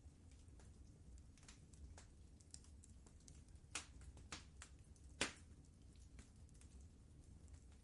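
Wood fire crackling softly: scattered small snaps and pops, a few louder ones in the middle, over a low steady rumble.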